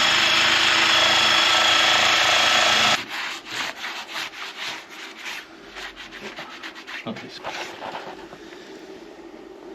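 A power tool runs steadily for about three seconds and then cuts off. Quick rubbing strokes follow, several a second, growing fainter.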